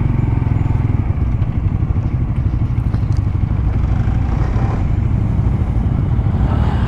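Motorcycle running under way on the road, a steady low rumble with a noisy rush over it.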